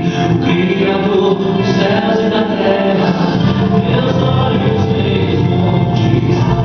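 Gospel song, voices singing together over instrumental backing, loud and continuous.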